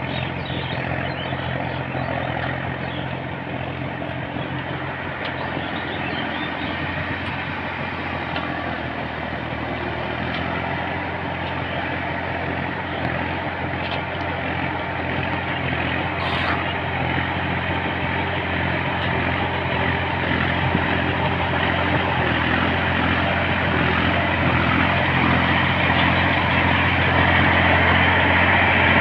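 Tractor engine running steadily, growing gradually louder toward the end.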